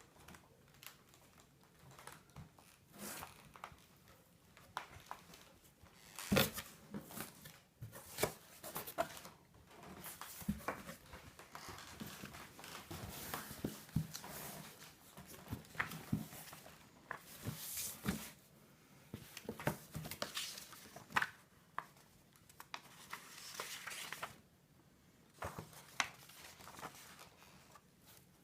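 Packaging being unpacked: irregular crinkling and rustling with scattered clicks and a few sharper knocks.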